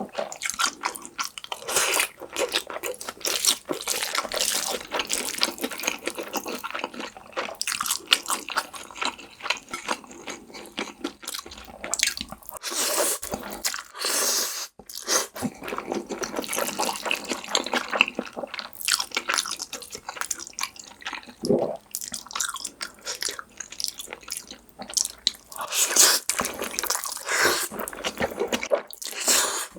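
Close-miked eating sounds: wet chewing and slurping of black bean noodles (jajangmyeon), with crunchy bites mixed in.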